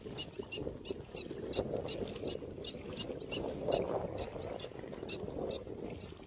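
A bird chirping repeatedly, short high calls at about three a second that stop near the end, over a low steady rushing noise.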